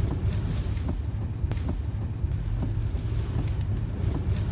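Steady low rumble and hiss of strong wind buffeting the microphone, with faint scattered ticks.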